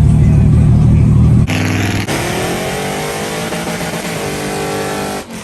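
Vehicle engine sound: a loud, deep rumble, then after an abrupt cut about a second and a half in, an engine accelerating with its pitch rising before it holds steady. It cuts off suddenly near the end.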